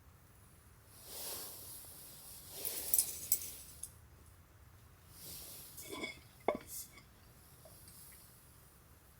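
Small objects being handled: light clinks and knocks with rustling, loudest about three seconds in and again around six and a half seconds.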